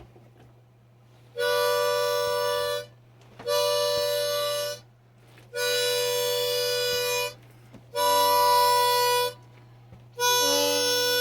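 Harmonica playing a closing run of five long held chords with short breaks between them, the last one held longest.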